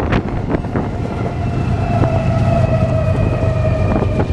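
Double-stack freight train cars rolling past: a steady low rumble with sharp clicks of wheels over the rail, and a high ringing squeal that comes in about a second in and slowly falls a little in pitch.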